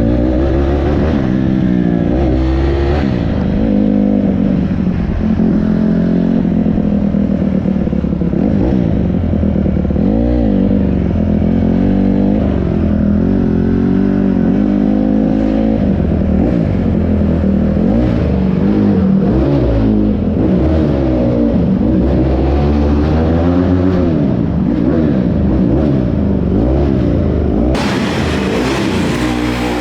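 Dirt bike engine running and being revved, its pitch rising and falling over and over as it is ridden.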